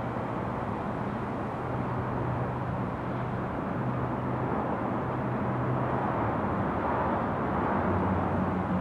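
Passenger train hauled by an Sr2 electric locomotive pulling away: a steady rolling rumble with a low hum, slowly getting louder.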